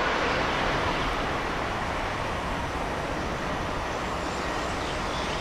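ICE high-speed train receding along the line, its rolling rush fading over the first couple of seconds and then settling into a steady, even background rush.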